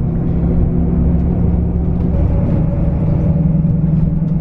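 Bus engine and road noise heard from inside the cabin: a steady low rumble with a held drone.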